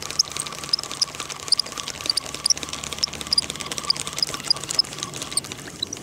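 Small birds chirping over and over in short, high calls, two or three a second, over a faint rapid ticking and a low steady hum.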